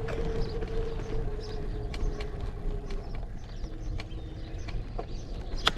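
Riding an electric bike: a steady low rumble of wind on the microphone, with a steady whine that drops in pitch about three and a half seconds in and scattered clicks and rattles.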